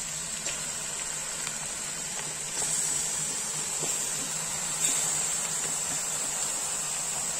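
Chicken pieces frying in hot oil and onions in a pressure cooker: a steady sizzling hiss that grows a little louder about two and a half seconds in. A few light clicks of a metal slotted spatula against the pot.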